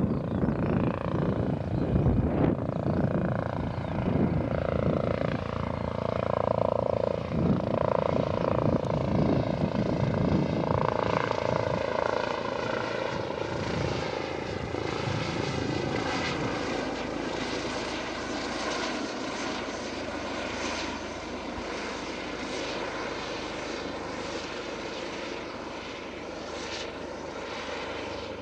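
Military aircraft passing low overhead, with a loud engine drone whose tones shift in pitch as it goes by. It is loudest over the first dozen seconds and then gradually fades away.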